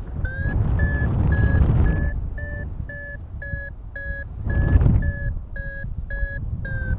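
Paragliding variometer beeping in steady short pips, about two a second, the tone it gives while the glider is climbing in lift. Airflow rumbles on the microphone underneath, with gusts swelling twice.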